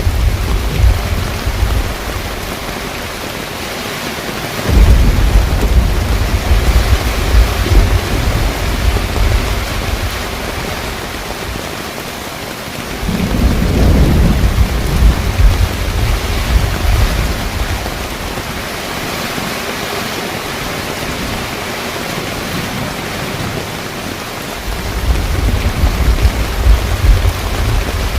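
Heavy rain falling steadily on a car rooftop tent, with three long, low rumbles of thunder rolling through, about 5, 13 and 25 seconds in.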